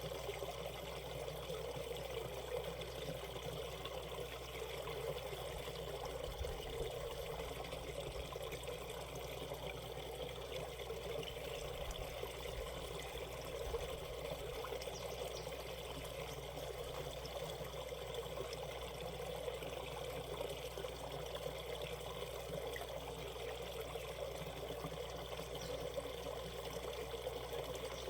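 Shallow mountain stream flowing over rocks: a steady trickling and pouring of water.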